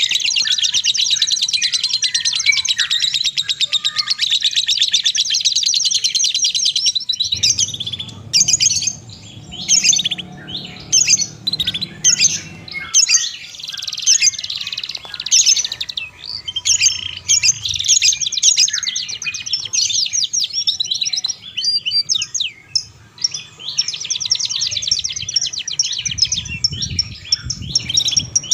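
Songbird song of rapid, high-pitched chirps and trills, unbroken for about the first seven seconds and then in quick, broken phrases, with a faint low rumble under it at times.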